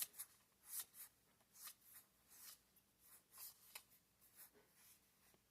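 Faint swishes of trading cards being slid and flipped by hand one after another, a soft brushing sound roughly twice a second.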